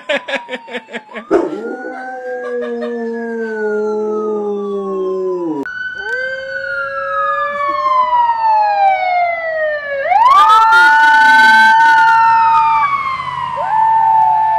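A dog howls in long pitched glides that rise and fall like a siren, with an emergency siren wailing alongside. It opens with a rapid pulsing warble. About ten seconds in, a steady held tone overlaps a falling howl.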